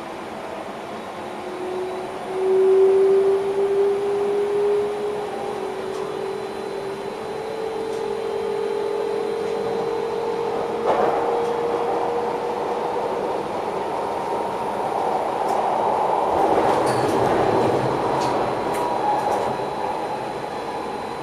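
Electric train heard from the driver's cab, its traction motors whining and rising slowly in pitch as it accelerates, over a steady rumble of wheels on rails. Later there is louder track rumble with a few sharp clicks, typical of rail joints or points.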